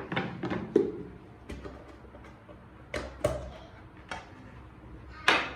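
A series of light knocks and clicks from kitchen items being handled and set down, irregularly spaced, with the loudest, slightly longer knock near the end.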